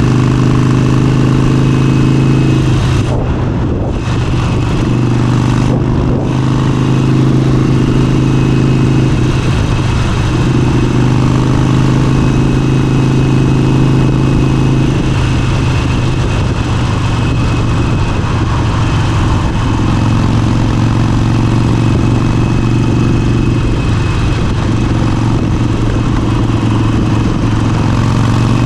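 Motorcycle engine running under way at a fairly steady road speed, with brief throttle lifts about three and six seconds in before it pulls steadily again.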